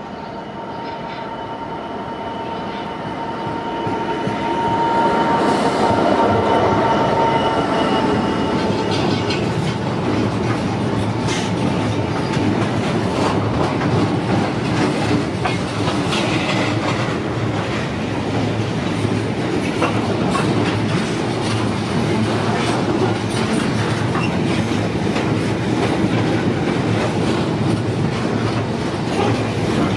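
Diesel freight locomotive approaching and passing with a long rake of box wagons, growing louder over the first few seconds with a steady high whine. After about nine seconds the whine fades and the wagons roll past in a continuous rumble with rapid clacking of wheels over rail joints.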